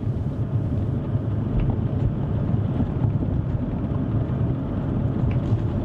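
Steady low rumble of a car on the move, engine and tyre noise heard inside the cabin.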